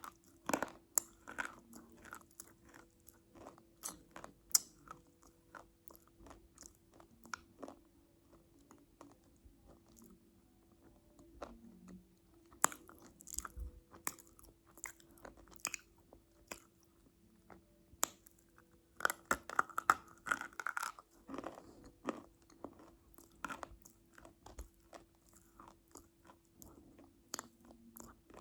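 Close-miked crunchy chewing and biting into crisp food, with irregular sharp crunches and a denser run of them about two-thirds of the way through. A faint steady hum lies underneath.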